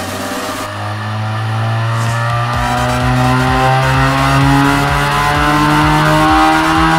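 Supercharged 2.4-litre Mitsubishi 4G69 four-cylinder in an Eclipse, under full load on a chassis dyno in fourth gear, its note climbing steadily in pitch and getting louder as the revs build.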